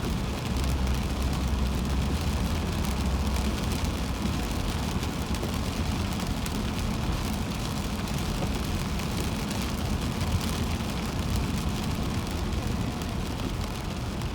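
Steady in-cabin noise of a car driving on a rain-soaked highway: a low rumble from tyres and engine under a constant hiss of water and rain, with fine patter.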